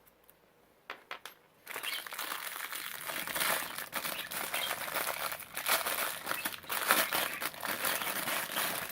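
Plastic packaging crinkling and rustling as a toy is unwrapped by hand: a few light clicks about a second in, then continuous crackling from nearly two seconds in.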